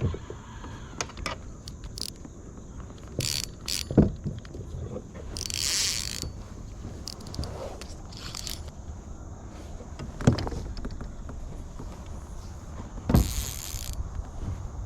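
Knocks and rattles of fishing gear on a kayak as a lively carp is brought aboard, with two brief splashy bursts, all over a steady chorus of crickets. Three sharp knocks stand out, about four, ten and thirteen seconds in.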